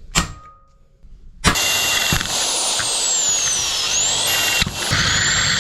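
A single metallic clang, then an angle grinder starts and runs loud and steady against metal, its high motor whine sagging and recovering as it is pressed into the work.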